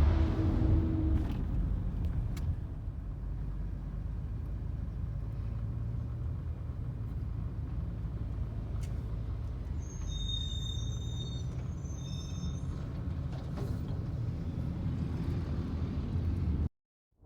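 Rear-loader garbage truck's diesel engine idling with a steady low rumble. A short high-pitched squeal comes twice about ten to twelve seconds in, and the sound cuts off abruptly near the end.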